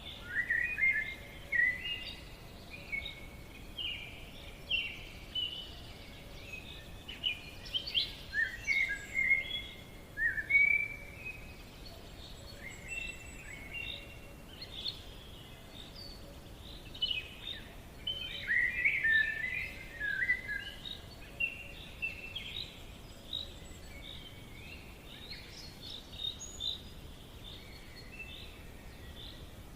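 Songbirds chirping and singing in a forest, many short overlapping calls and trills, with a faint steady background. The song is densest in the first third and again around two-thirds in, thinner in between.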